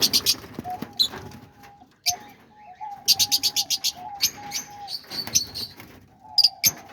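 A flock of caged small parrots (lovebirds and parakeets) chirping together: quick runs of sharp high chirps, about eight a second, over a lower, repeated wavering call.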